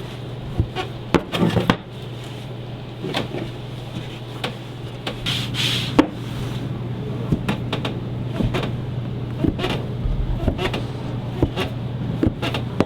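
A steady low hum with scattered clicks, knocks and clatter of work going on in a small kitchen.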